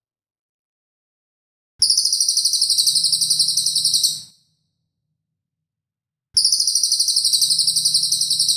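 A songbird's rapid, harsh shooting trill ('tembakan'), high-pitched at about nine notes a second, heard as two matching bursts of about two and a half seconds each with a pause between.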